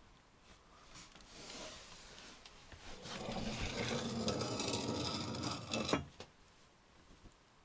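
A rough scraping, rubbing sound of wood or metal dragged over a hard surface, lasting about three seconds from around three seconds in.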